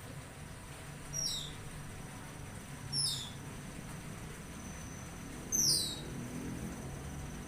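A songbird gives three short calls, each sliding down in pitch, a couple of seconds apart. They sound over a steady high insect trill and a low hum.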